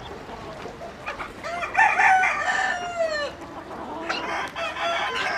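Rooster crowing: one long call starting about a second and a half in, with its pitch falling at the end, then a second crow near the end. Chickens cluck softly around it.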